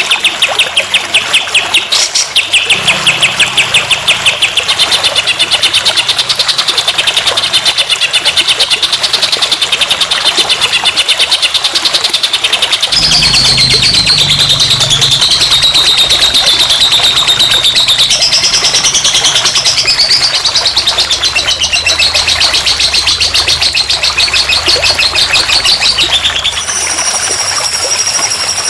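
Recorded songbird song played as masteran: loud, very fast, continuous chattering trills at a high pitch. The song changes abruptly to a different pattern about two and a half seconds in, again about halfway through, and again near the end.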